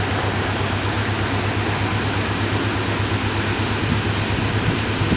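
Steady hiss of heavy rain during a thunderstorm, with a low steady hum underneath.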